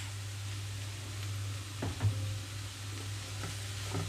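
Chopped cabbage and carrot sizzling in a frying pan over a steady low hum, with a wooden spatula knocking against the pan twice about two seconds in and again near the end as stirring starts.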